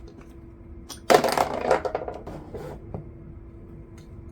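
A rattle of quick metallic clicks and clatter for under two seconds, starting about a second in: a socket being worked on the bowl nut of a Tecumseh lawnmower carburetor. A faint steady hum runs underneath.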